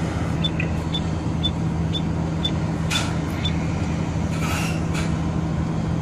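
A heavy truck's diesel engine running steadily at low revs. About seven short high-pitched beeps sound roughly twice a second over the first few seconds, and a brief hiss comes about four and a half seconds in.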